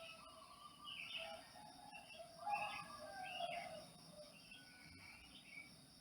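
Faint bird calls: a string of short pitched calls, some overlapping, over a steady high hiss.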